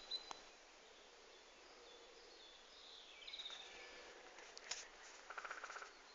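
Faint woodland birdsong: scattered high calls a little past three seconds in, then a quick run of repeated notes about five seconds in.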